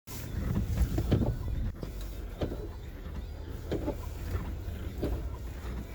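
Car interior noise while driving slowly through snow: a steady low rumble, with a short swishing sound repeating about every second and a half.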